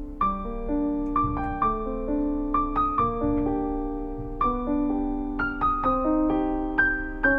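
Background piano music: a gentle melody of separate notes struck over sustained chords.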